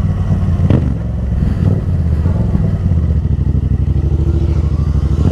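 Motorcycle engine running steadily under way, with a short knock about a second in.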